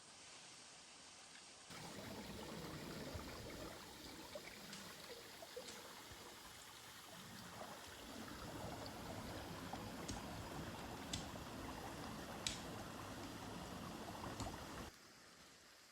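Running water, a steady trickling and splashing with a few sharp clicks, starting abruptly about two seconds in and cutting off near the end.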